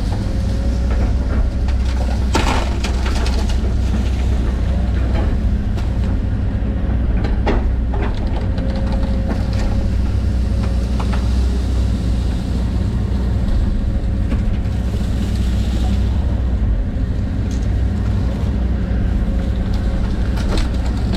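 John Deere 130G excavator's diesel engine running steadily, heard from the operator's cab, with a few knocks and cracks over it, the loudest about two and a half seconds in.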